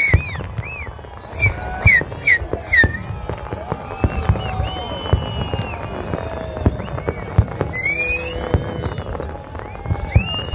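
Fireworks display with many sharp bangs and crackles in quick, irregular succession, mixed with high rising-and-falling calls from the watching crowd.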